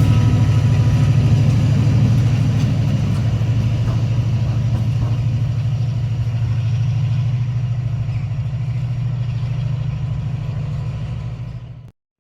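A train's engine running with a steady low throb that slowly fades, then cuts off abruptly near the end.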